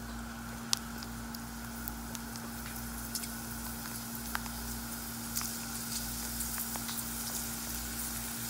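Sun-dried leftover dosa pieces deep-frying in hot oil: a steady sizzle with scattered small pops, over a steady low hum.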